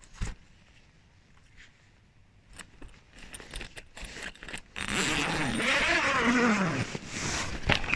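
Tent door zipper being worked by hand: quiet for the first couple of seconds, then clicks of the metal sliders and pulls and fabric rustling, and a louder rasping run of the zipper from about five to seven seconds in.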